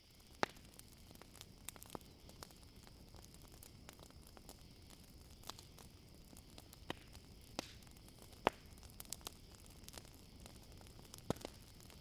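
Wood campfire crackling, with irregular sharp pops, the loudest about half a second in, about two-thirds of the way through and near the end. A steady high chirring of crickets runs underneath.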